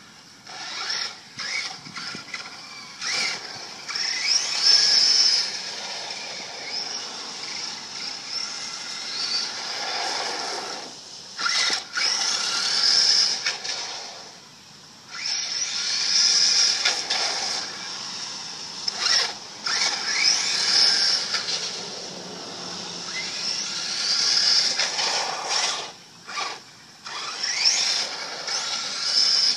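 Electric motor and drivetrain of a Kyosho DMT radio-controlled monster truck whining as it is driven hard, the pitch rising and falling with each burst of throttle, with short gaps where it lets off.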